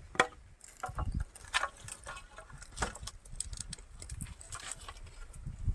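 Dry sticks of firewood knocking and clattering as they are pulled from a pile and handled, with a few sharper knocks among smaller clicks.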